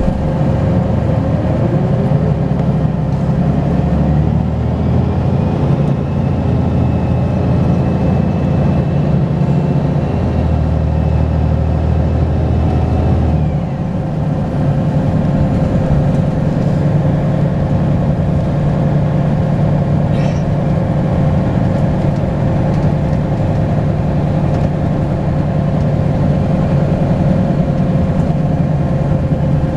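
Volvo B10BLE bus's diesel engine pulling hard with its turbocharger whistling: the engine note climbs over the first couple of seconds, a high turbo whistle holds for about ten seconds and falls away just before the halfway point, then the engine runs on steadily.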